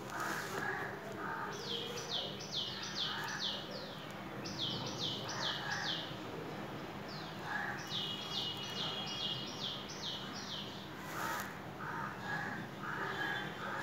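A bird calling in three quick runs of short, high notes, each note falling in pitch, about four or five a second. Lower, shorter calls come and go over a steady low hum.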